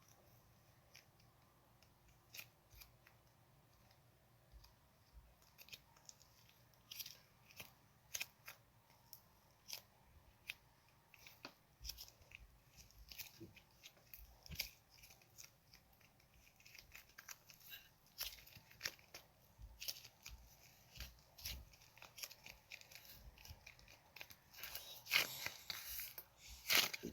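Slime being mixed by hand, giving irregular soft clicks and crackles that grow denser and louder near the end.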